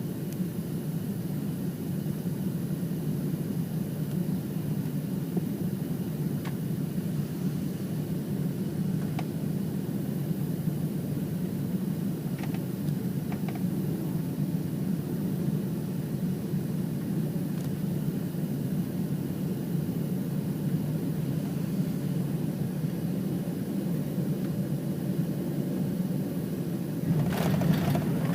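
Steady low rumble of a Boeing 767 airliner heard from inside the passenger cabin, swelling louder about a second before the end.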